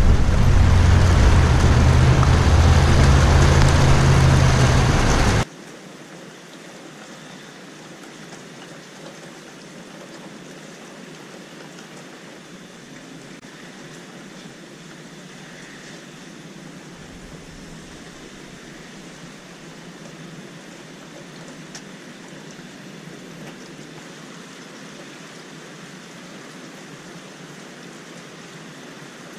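Steady hiss of rain falling during a winter thunderstorm. For about the first five seconds a much louder, deep rumbling noise covers it, then cuts off abruptly.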